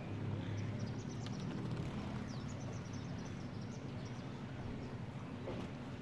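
Small birds chirping in quick, short high notes, most of them in the first half, over a steady low rumble.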